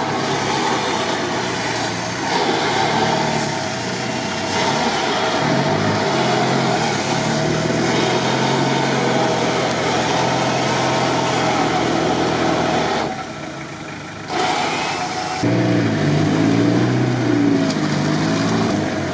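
Off-road 4x4 engines running and revving under load in deep mud, with the nearby Toyota Land Cruiser 70 working through the mud and onto a tow rope; the engine pitch rises and falls throughout. The sound drops for about a second and a half around two-thirds of the way in, then comes back with the revs going up and down more.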